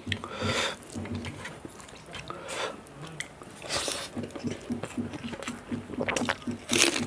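Close-up eating sounds: chewing with a few loud crunching bites.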